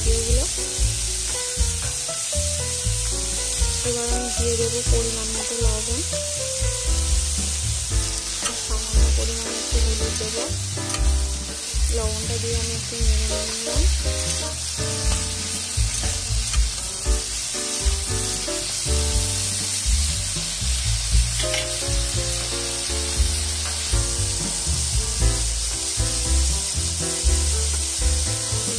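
Cubed eggplant sizzling steadily as it fries in mustard oil in a metal kadai, with a spatula stirring and scraping the pieces. Background music plays underneath.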